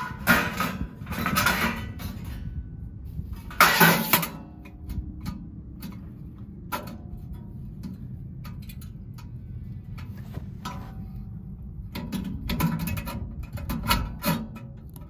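Handling noises from unpacking a wood-burning stove: bursts of rustling and clatter, the loudest about four seconds in, with scattered clicks and knocks between them.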